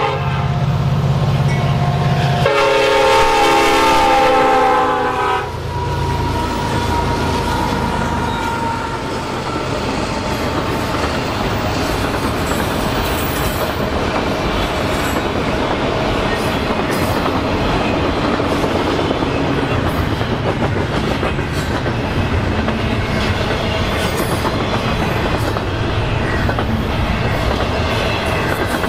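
Union Pacific SD70ACe locomotive's air horn sounds two long blasts, the second cutting off suddenly about five seconds in. The locomotive's diesel engine passes, and then a long intermodal train of autorack and double-stack container cars rolls past with a steady rumble and the clickety-clack of wheels over rail joints.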